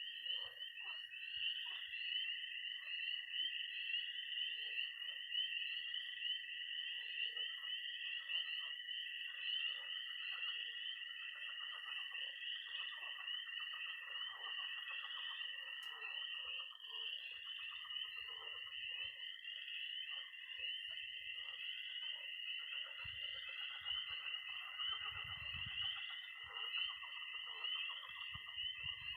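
Dense spring night chorus of frogs and toads: spring peepers peeping high and fast in a constant pulsing mass, over the unbroken high-pitched trill of toads, with scattered lower croaks of pond frogs.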